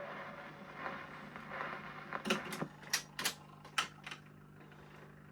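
Record player at the end of a 78 rpm shellac record: the last of the music dies away into surface hiss over a steady low hum. About two seconds in, six sharp mechanical clicks and knocks come over roughly two seconds, some in quick pairs.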